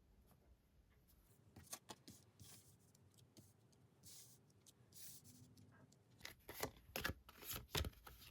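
Tarot cards being handled on a table: soft paper rustles and light taps, a few at first and a quick run of them near the end.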